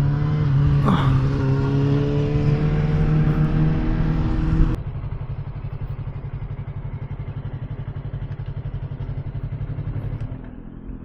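Motorcycle engine running under way with wind rush, its pitch slowly falling as the bike slows; about five seconds in the sound drops abruptly to a quieter idle that pulses rapidly, fading near the end.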